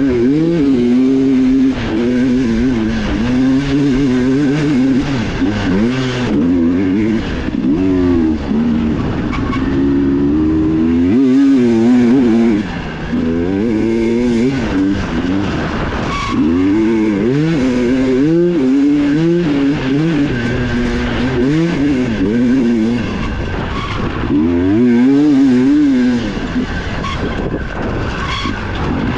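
Dirt bike engine ridden hard on an enduro trail, heard from on board: the throttle opens and closes over and over, the pitch climbing and dropping with each burst, with a short lull about twelve seconds in.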